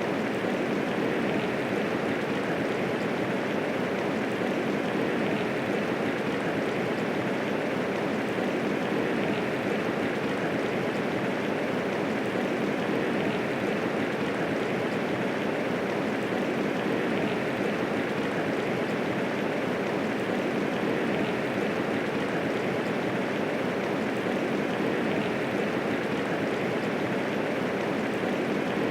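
Steady medium rainfall, an even dense hiss of drops with no thunder.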